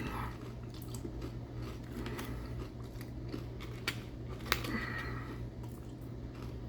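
A man chewing crunchy baked chips, with two sharp crunches a little past halfway. A steady low hum runs underneath.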